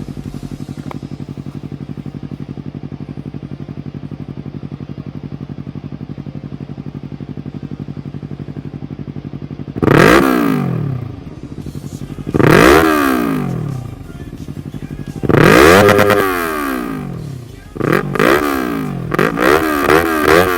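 Yamaha YZF-R3's parallel-twin engine through an Akrapovic Racing GP full exhaust, idling steadily at about 1500 rpm. About ten seconds in it is revved, again around twelve and a half and fifteen and a half seconds, each rev rising and falling in pitch, then blipped several times in quick succession near the end.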